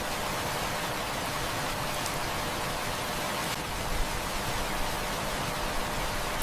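Heavy rain falling steadily, an even hiss of many drops, with a few faint clicks and one brief sharper tap about four seconds in.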